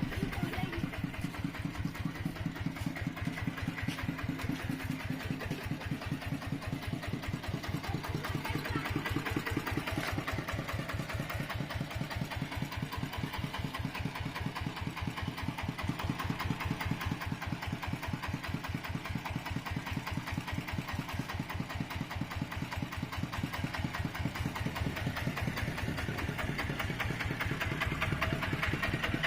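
Mini tractor's engine running steadily, an even, rapid chugging of firing pulses.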